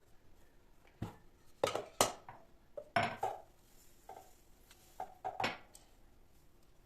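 Kitchen dishes and utensils being handled: a string of short knocks and clinks, some ringing briefly, spread over a few seconds.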